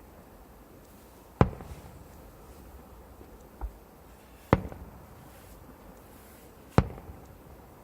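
Fireworks bursting: three loud, sharp bangs a couple of seconds apart, each trailing off in a short rolling echo, with a fainter low thump between the first two.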